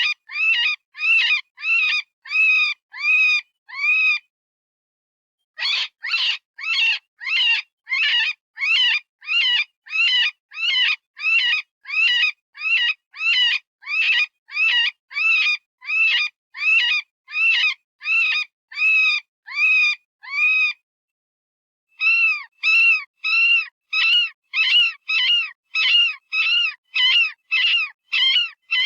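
Synthesized rabbit distress call from animal-sound software: short, high-pitched screaming squeals repeated about twice a second, each rising and then falling in pitch. The calls break off for about a second twice, about four seconds in and again past twenty seconds. It is the frightened-rabbit scream that hunters use as a predator call.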